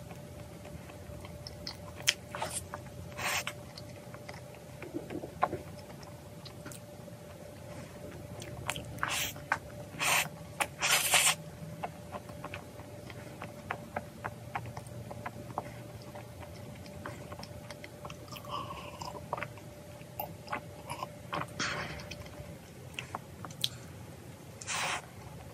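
Close-up eating of a cookie choux cream puff topped with Nutella: crunchy bites into the crisp cookie crust with chewing in between. The loudest bites come in a cluster a little before halfway and once more near the end.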